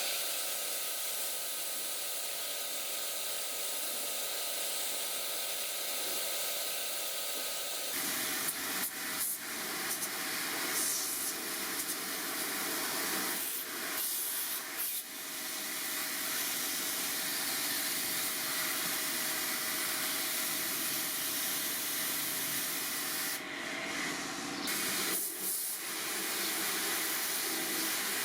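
Steady hissing spray from a cleaning jet, with a motor's steady hum underneath. The spray changes abruptly about eight seconds in and breaks off briefly a few times.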